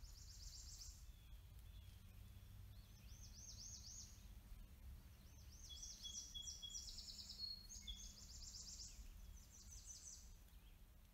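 Near silence, with faint high-pitched bird chirps and trills coming in several bursts of quickly repeated notes, over a low steady hum.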